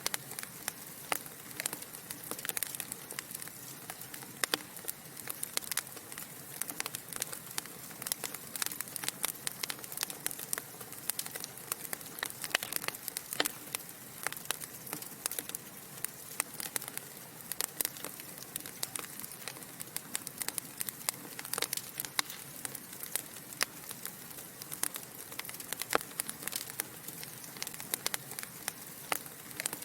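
Wood fire burning in a fireplace: logs crackling with dense, irregular pops and snaps over a steady hiss.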